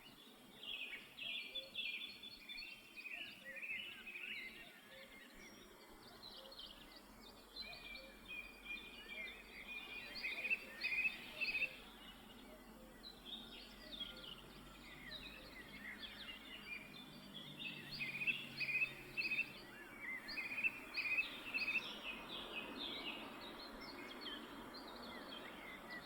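Black-headed woodpeckers calling: runs of short, sharp, high notes in quick succession, repeating in bursts throughout.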